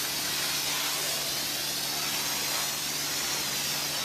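Self-service car wash equipment spraying water onto a car: a steady hiss of spray, splashing, with a steady low hum underneath.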